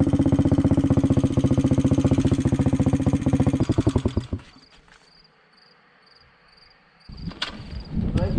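Small motorcycle engine running steadily with even firing pulses, then slowing and stopping about four seconds in as it is shut off. After that it is quiet apart from faint, evenly repeated high chirps, until a clatter near the end.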